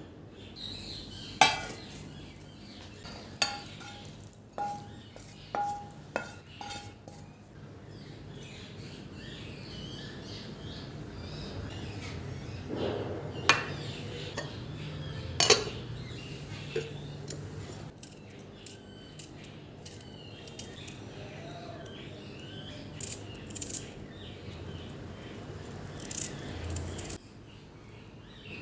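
Kitchen utensils clinking and knocking against dishes and pans in a string of separate sharp strikes, several close together in the first few seconds, with birds chirping faintly in the background.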